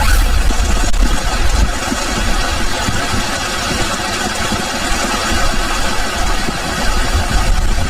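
Heavy typhoon rain hissing steadily, with strong wind buffeting the microphone in a low, uneven rumble.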